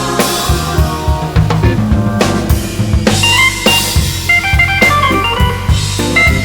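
Blues band playing an instrumental break: a full drum kit with snare and bass drum keeps the beat under a moving melodic lead line.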